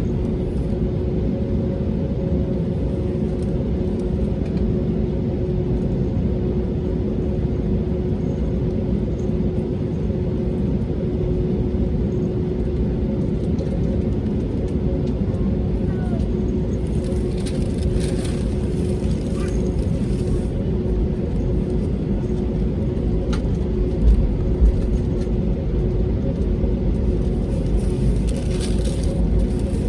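Cabin noise inside an Airbus A320neo with its Pratt & Whitney PW1100G geared turbofans running: a steady hum with two steady tones over a low rumble. Two short thumps come about two-thirds of the way through.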